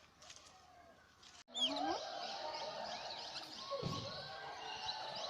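Faint background, then after an abrupt cut about a second and a half in, many birds chirping and calling at once in dense, overlapping short whistles.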